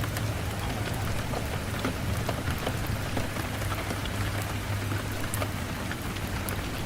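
Steady rain on a surface, with a low rumble underneath and scattered sharp crackles from a wood fire.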